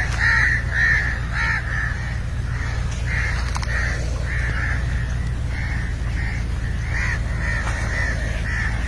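Birds calling: a long run of short repeated calls, roughly two a second, over a steady low hum.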